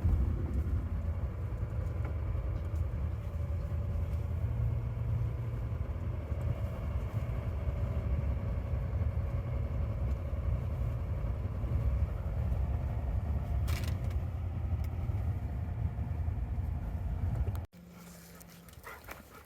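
Steady low rumble of a car driving, with road and engine noise heard from inside the cabin. About a second before the end it cuts off suddenly to a much quieter scene.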